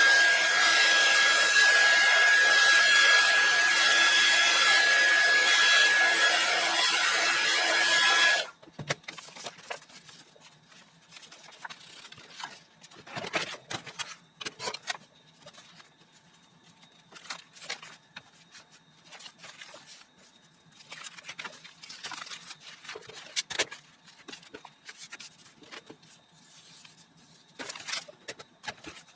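A handheld electric blower runs steadily with a high whine for about eight seconds, then shuts off. Faint scattered taps and rustles follow.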